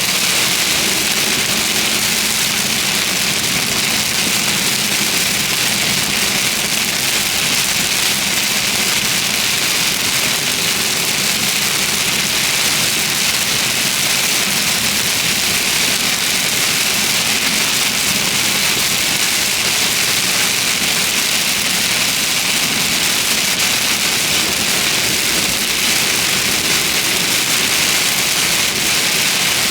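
Heavy rain and wet-road tyre spray around a moving car: a steady, even hiss, with a low hum of engine and road noise beneath.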